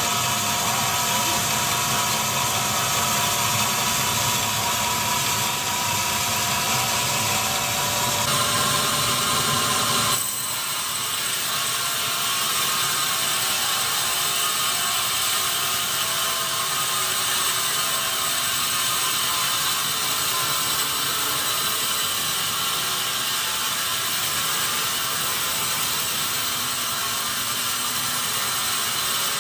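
Sawmill machinery running steadily, a dense mechanical noise. Its tone shifts abruptly about eight seconds in and again about ten seconds in, after which the deep part of the sound falls away.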